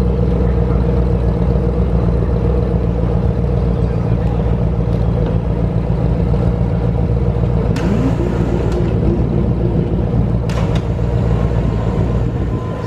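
A vehicle engine running steadily at idle, with a couple of short clicks about eight and ten and a half seconds in.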